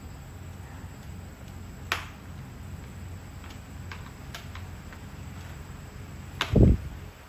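Hand work on a snowmobile light housing: a sharp click about two seconds in, a few light taps after it, and a heavy low thump near the end, over a steady low hum.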